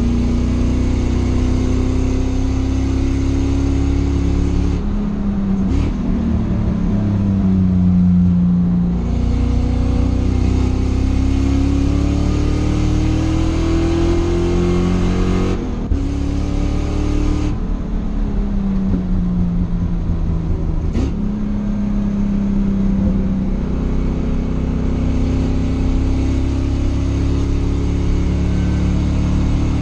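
Race car engine heard from inside its stripped cockpit on track. The note climbs under acceleration, drops away about 5 s and 16 s in as the driver lifts off for corners, then climbs again.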